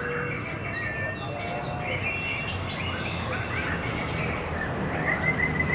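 Several caged songbirds chirping and trilling over one another, a dense tangle of short calls with a few held whistled notes, over a low background murmur.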